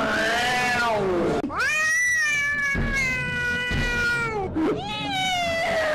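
Siamese-type cat meowing in long, drawn-out yowls, one after another. One call dies away with a falling pitch about a second and a half in, the next lasts about three seconds, and a third starts just before the end.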